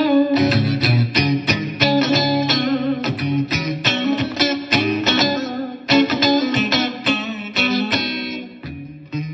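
Donner DST-100 S-type electric guitar played through an amp: a run of quickly picked notes and chords with heavy low notes, easing into softer, lighter notes near the end.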